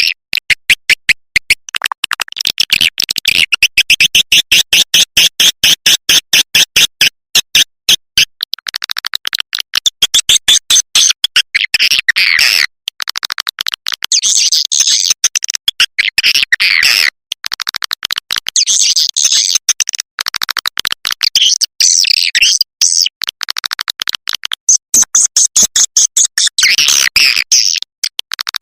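Recorded swiftlet calls: fast, dense rattling trains of clicks and twittering chirps in bursts of a few seconds separated by short gaps, the kind of call track played as a lure to draw swiftlets into a nest house.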